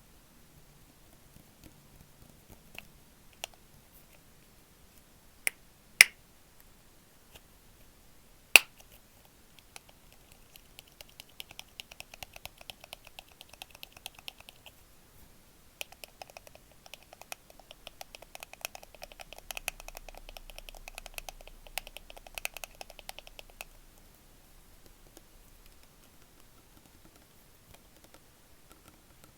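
Close-miked ASMR trigger sounds. Scattered light clicks come first, then two sharp, loud snaps a couple of seconds apart. After that come two long runs of rapid tapping, with a short break between them.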